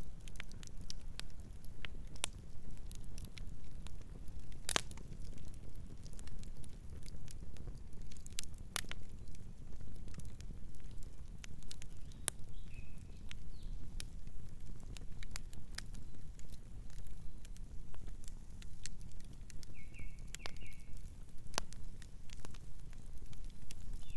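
Wood fire crackling, with irregular sharp pops and snaps over a steady low rumble of the burning. A few faint, short bird chirps are heard in the middle and near the end.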